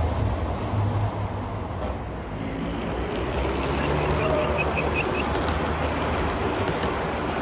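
HO-scale model train running along layout track: a steady rumble of motor and wheels on the rails. A quick run of high chirps sounds about four seconds in.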